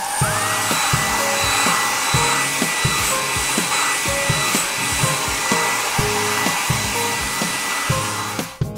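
Hair dryer blowing: its motor whine rises in the first moment, then holds steady over a loud rush of air until it cuts off near the end. Children's background music plays underneath.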